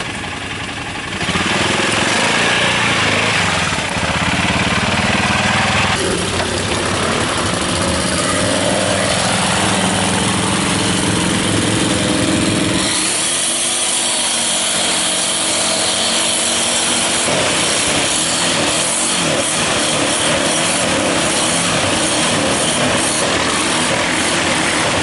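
ATV (quad bike) engine running hard, its revs rising and falling as it is ridden. It gets louder about a second in, and around the middle it drops off briefly before revving up again.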